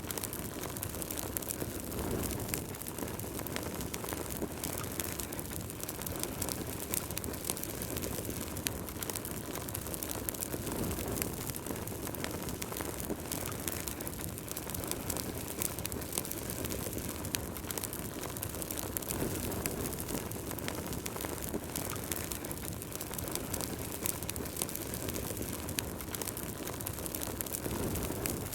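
Wood fire burning in a fireplace: a steady low rush with frequent small, sharp crackles and pops throughout.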